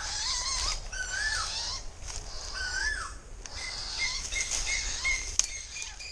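Wild birds calling in woodland: a few slurred, rising-and-falling whistled notes in the first three seconds, then a quick, even series of short high notes from about halfway, over steady high twittering from smaller birds.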